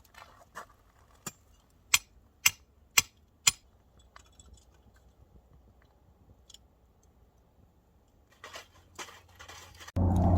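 A series of sharp clicks or taps, six in all about half a second apart, then quiet with a few faint ticks. Music begins just before the end.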